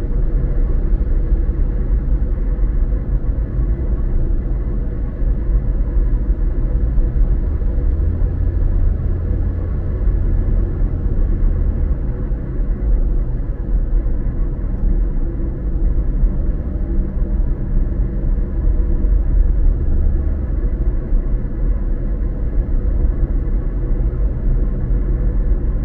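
Car driving at a steady speed: a continuous low rumble of road and engine noise that stays even throughout, swelling slightly in the bass about a third of the way in.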